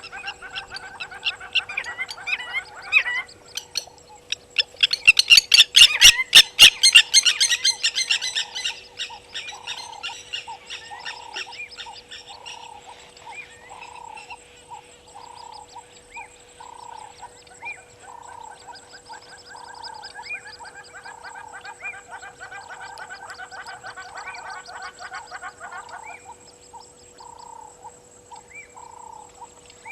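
Frogs and birds calling: a loud, rapid chattering burst about five seconds in that lasts some four seconds, then a steady series of short croaks about once a second over softer trilling.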